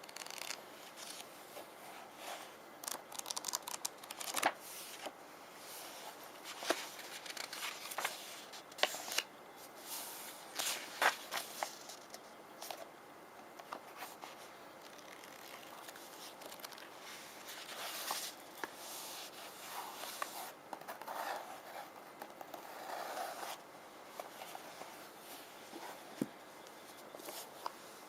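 Small rune stones handled: many sharp clicks and taps as stones knock together and are tapped with fingernails, then softer scratching and rubbing across their surfaces, with one more click near the end.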